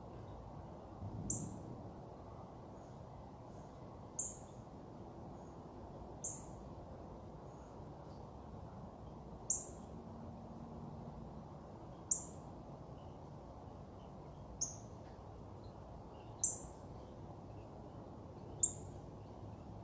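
A bird giving short, sharp, very high chip notes, one every two to three seconds, over a steady low outdoor rumble.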